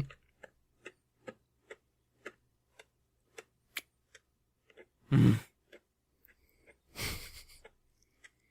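Faint sharp clicks at about two a second, slightly uneven. About five seconds in comes a short, louder low thump or breath, and about seven seconds in a brief breathy rush.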